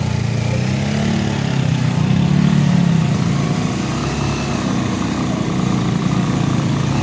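Motorcycle engine running steadily, swelling a little about a second in and settling again after about three seconds.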